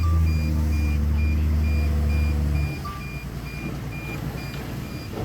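Construction vehicle's reversing alarm beeping steadily about twice a second over a heavy diesel engine running low and steady. About halfway through, the engine note drops away abruptly while the beeping goes on.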